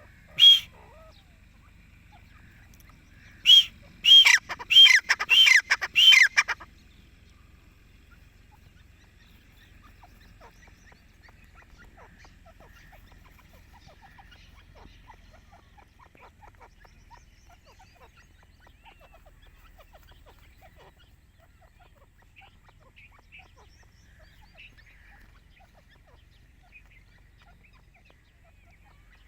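Grey francolin calling: one loud note, then a quick run of about six loud, ringing notes a few seconds in. After that there are only faint scattered chirps.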